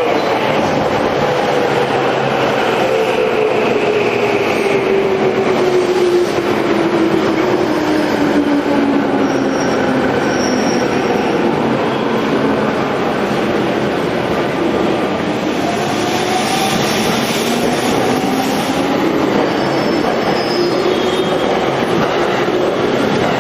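A JR Yamanote Line 205 series electric train running, a steady rumble of wheels and motors. Its hum glides down in pitch for about ten seconds, then rises again, with a few brief high wheel squeals.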